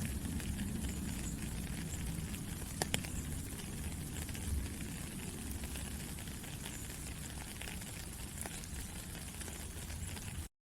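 Steady rain falling, with a low rumble underneath and a few sharp drip ticks now and then. Right at the end the sound cuts out to silence for a moment.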